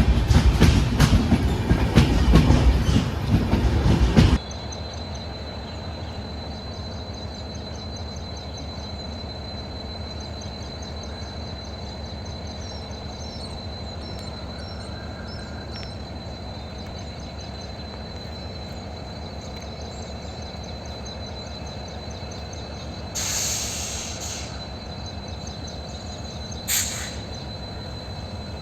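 A train running with rapid clicking of its wheels over the rail joints. After about four seconds it cuts off suddenly to a quieter steady rumble with a thin, steady high whine. Near the end come two short hissing bursts.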